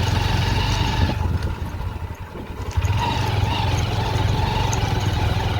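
Motorcycle engine running under way on a rough dirt track; the engine eases off about a second and a half in and picks up again near the middle.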